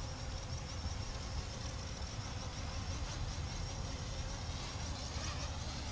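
CG035 quadcopter's motors and propellers buzzing steadily, faint, while it flies in GPS mode, over a low rumble of wind.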